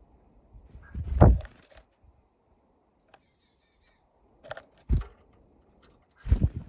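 Small birds at a window-mounted feeder: sudden knocks and scrabbling as they land and peck, loudest about a second in, again near the middle and near the end. A brief high bird call with a few quick notes comes in between.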